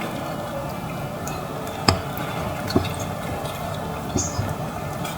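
Small wild birds bathing in shallow water: a few short splashes and drips over a steady watery background, the sharpest about two seconds in.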